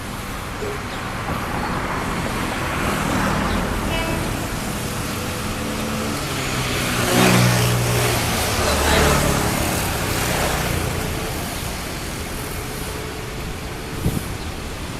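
An engine-driven vehicle passing by: its running note grows louder to a peak about seven to nine seconds in, then fades.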